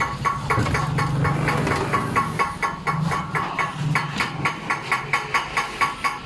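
Rapid, evenly spaced metallic clicks, about four a second, each with a short ring, from hand-tool work on the transmission's metal parts, over a low steady hum.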